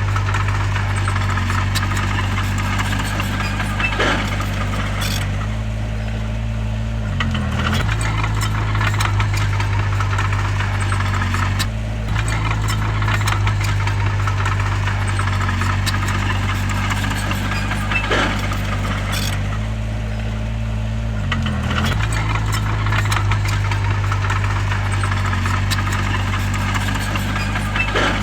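Heavy diesel engine of a crawler bulldozer running steadily, its pitch dipping briefly and recovering twice, with metallic clanks and rattles now and then.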